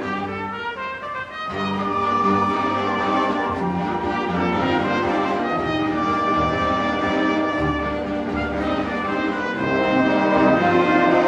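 Orchestral music with brass and strings playing sustained chords that change about every second or two, fuller and louder near the end.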